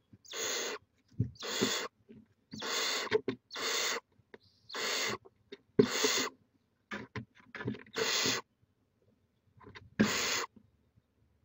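Barn owls giving a series of about eight harsh, breathy hisses, each lasting about half a second to a second, with a few short clicks between them.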